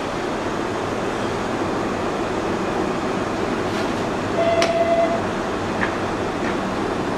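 Hanshin 7861-series electric train drawing to a stop alongside the platform, a steady rumble of the train. About four and a half seconds in comes a short high squeal, the loudest moment, and a knock a little over a second later as the doors open.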